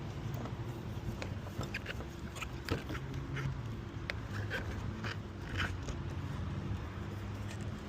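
Lockout tools working at a pickup truck's door: scattered small scrapes and clicks of a wedge and reach tool against the door and frame, over a steady low hum.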